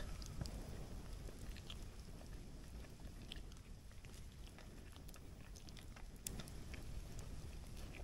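Faint sounds of a person eating pasta from a paper plate with a fork: chewing, with scattered small clicks.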